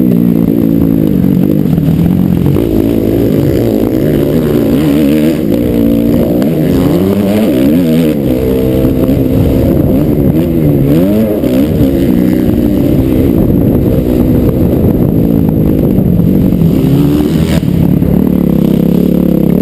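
Motocross bike engine revving hard and easing off again and again, its pitch rising and falling every second or two as the bike accelerates and shifts around a dirt track, heard close up from on board.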